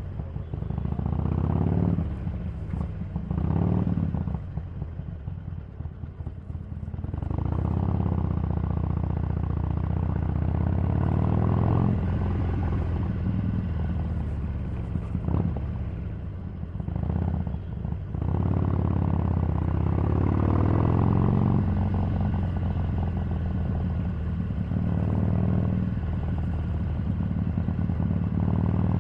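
Harley-Davidson 883's air-cooled V-twin engine under way. The revs climb and fall several times as it pulls through the gears, and it eases off for a few seconds early on before pulling again.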